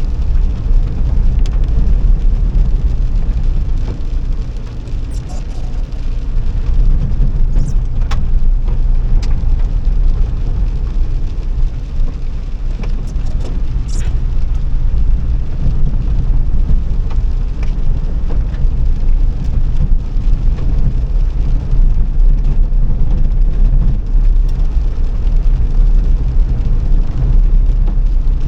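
Steady low rumble of a car being driven: engine and road noise, with a few faint clicks or rattles now and then.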